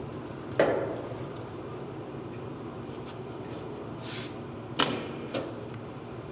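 Two sharp knocks about four seconds apart, the second with a brief high ring and a smaller knock just after it, over a steady low hum.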